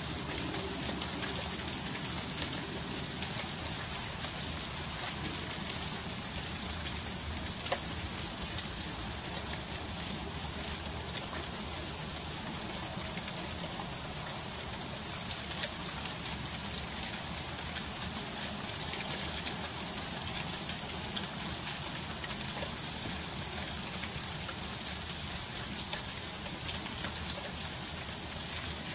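Freezing rain falling in an ice storm: a steady hiss with many small ticks of drops striking icy surfaces, and a few louder ticks here and there.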